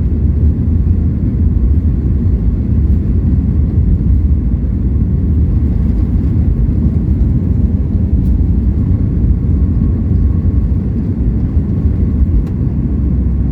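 Steady, loud low rumble of a Boeing 737 MAX 8 heard from inside the passenger cabin: engine and airflow noise with no changes in pitch.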